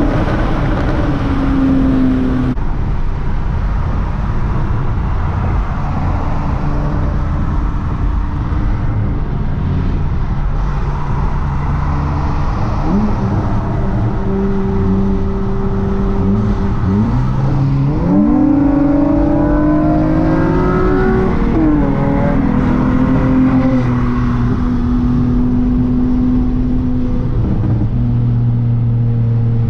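Car engine running at steady speed, then revving up in a quick rise of pitch about two-thirds of the way through and settling back a few seconds later.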